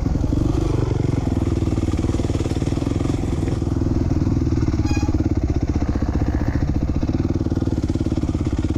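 2007 Honda CRF450R's single-cylinder four-stroke engine running on and off the throttle, fast even firing pulses with the revs rising and falling slightly.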